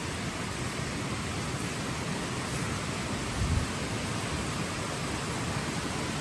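Steady rainfall, an even hiss of rain falling all around. About three and a half seconds in there is a brief low thump.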